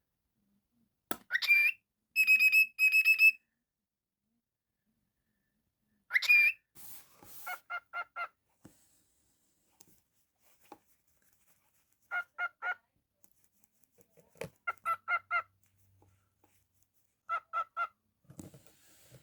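Cockatiel calling: a rising chirp about a second in, then two short held whistles. A second rising chirp follows, then several quick runs of three or four short, evenly spaced notes with pauses between them.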